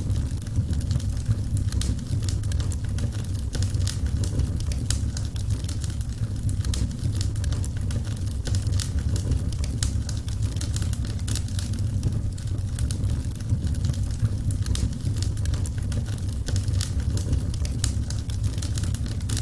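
Wood fire crackling: many sharp crackles and pops, several a second, over a steady low rumble of the burning logs.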